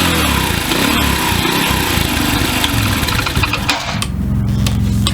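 Honda Little Cub's 49cc single-cylinder four-stroke engine running with the revs rising and falling, then dropping back to a steady idle about four seconds in.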